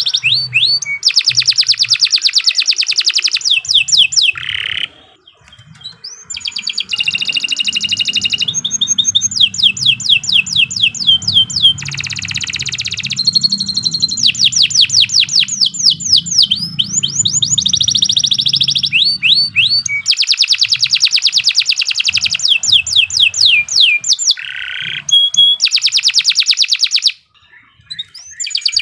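Domestic canary singing a long, vigorous song of fast trills and rolled phrases, broken by a brief pause about five seconds in and another near the end.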